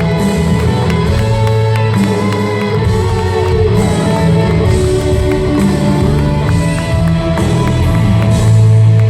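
Live band music: an instrumental passage of held chords over a steady beat, with no clear lead vocal.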